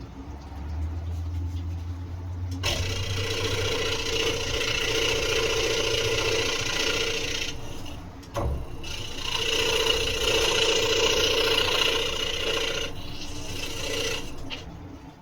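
Scroll saw running and cutting wood: a low motor hum starts about half a second in, then the blade's steady rasping cut begins a couple of seconds later, stops briefly about halfway through and resumes.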